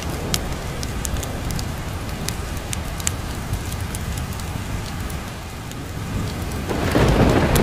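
Steady rain with scattered sharp pops, and a roll of thunder swelling up near the end.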